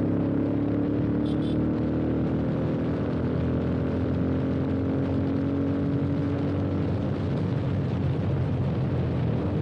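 Yamaha FZ25's single-cylinder engine running steadily under way through an aftermarket slip-on exhaust, at a fairly constant pitch that loosens toward the end.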